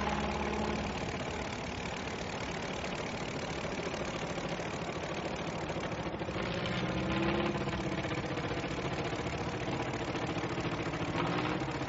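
Piston aircraft engine running with a steady drone, its pitch shifting slightly about two-thirds of the way through.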